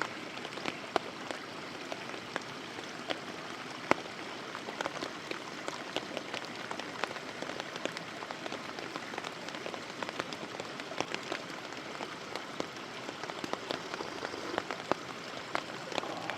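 Campfire crackling, with irregular sharp pops scattered over a steady rushing hiss.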